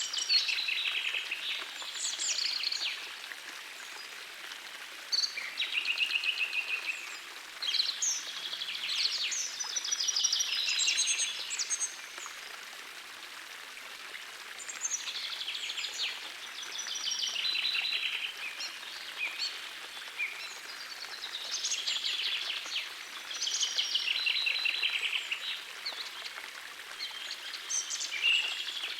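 Songbirds singing in phrases of quick trills and chirps every few seconds, over the steady hiss of a gentle forest stream.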